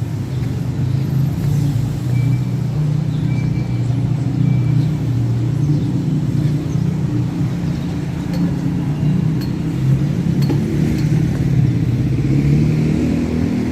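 Motor vehicle engine running steadily at low revs, a continuous low rumble.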